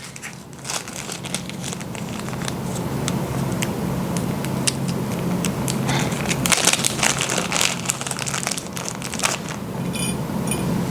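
Rustling, crinkling handling noise with many light clicks, busier from about halfway through, over a steady low hum.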